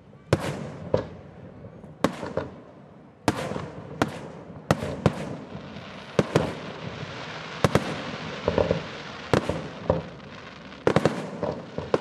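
Aerial firework shells launching and bursting: about a dozen sharp booms in quick, irregular succession, each followed by an echoing tail. A steady hiss fills the middle stretch, between the booms.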